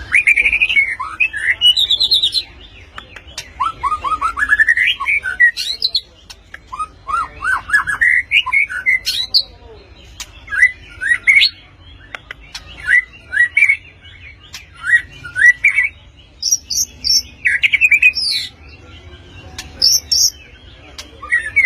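Young white-rumped shama (murai batu) singing: loud, varied phrases of rapid whistled notes, each about a second long, with short pauses between them and a few very high, sharp notes near the end.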